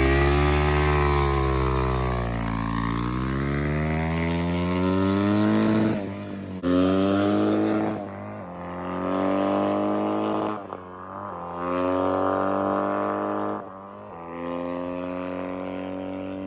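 Two-stroke-style dirt bike engine revving. Its pitch dips and climbs again over the first few seconds, then it runs in four bursts that each cut off suddenly. A rider watching takes this for the rider slipping the clutch too long.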